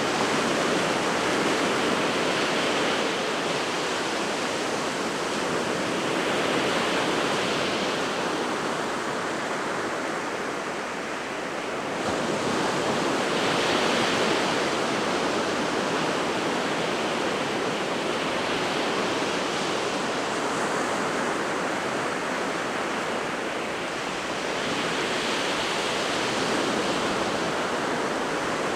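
Winter Sea of Japan surf breaking on the shore in a steady wash, swelling and easing every several seconds as the waves come in.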